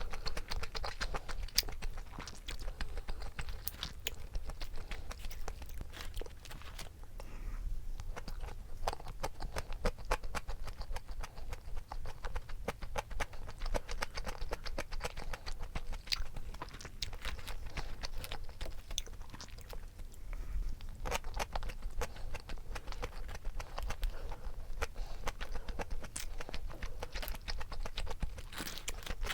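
A person chewing gimbap close to the microphone: a steady run of small, irregular wet mouth clicks and chewing sounds.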